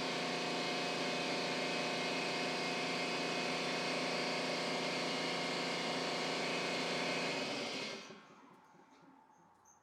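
A motor-driven machine running steadily with a strong hiss, then winding down and stopping near the end.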